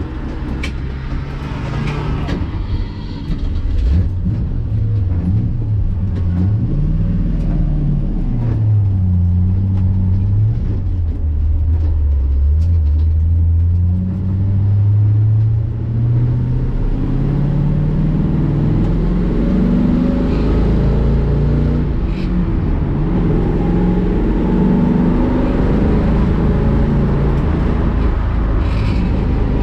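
1965 Ford Mustang race car's V8 engine heard from the cockpit at speed, its pitch rising and falling again and again as it accelerates, brakes and changes gear. It is quieter for the first few seconds, then louder from about four seconds in.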